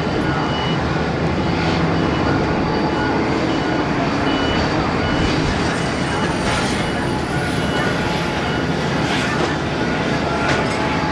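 Boeing 787-8 Dreamliner's jet engines running with a steady rumble, and a high whine that climbs slowly from about halfway through as the engines spool up. A short beep repeats in the first half.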